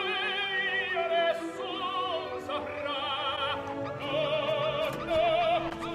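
Operatic singing with a strong vibrato, long held notes over an orchestral accompaniment.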